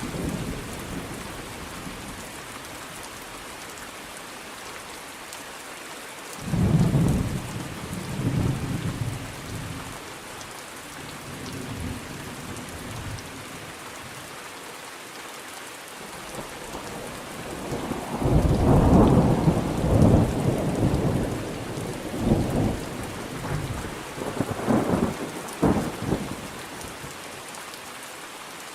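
Steady rain with rolling thunder: one rumble swells about a quarter of the way in, and a longer, louder peal rolls through the last third in several surges, with a sharp crack near the end.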